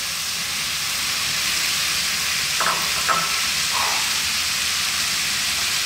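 Potatoes and leeks frying in hot coconut oil with onions and spices: a steady sizzle.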